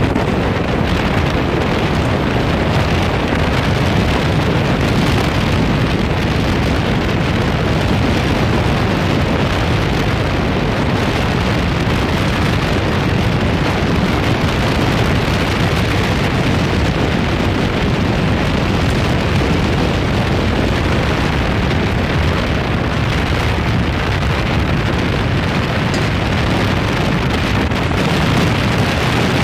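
Strong wind buffeting the microphone: a loud, steady rushing noise, heaviest in the low rumble.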